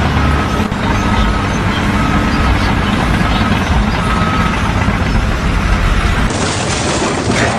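A heavy vehicle's engine running with its reversing alarm beeping at about one beep a second; the sound changes abruptly near the end.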